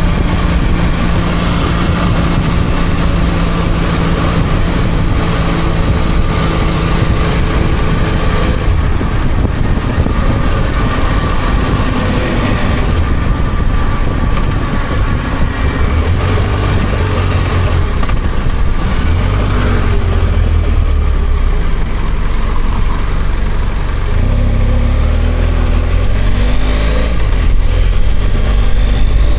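BMW F800GS parallel-twin engine running under way, steady at first, then rising and falling in pitch as the revs change later on, over a constant rush of noise.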